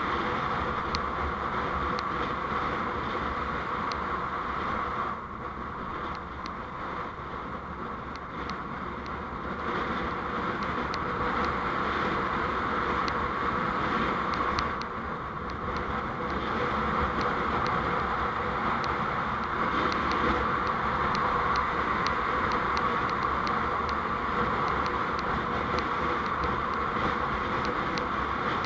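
Steady road and engine noise from a moving vehicle, dropping a little about five seconds in and again about fifteen seconds in before rising back.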